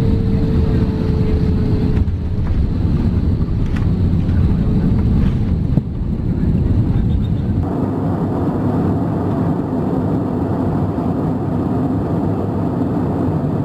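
Airliner cabin noise by the wing: jet engines and airflow making a steady, heavy noise. The sound changes abruptly a few times, about 2, 6 and 8 seconds in, as one flight's clip cuts to the next.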